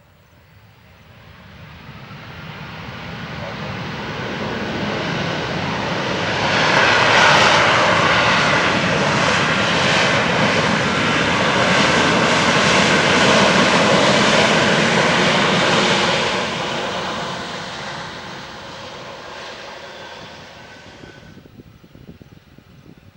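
Airbus A330-243 airliner's Rolls-Royce Trent 700 turbofan engines passing by: the jet noise and whine build up, hold loud for about ten seconds, then fade away.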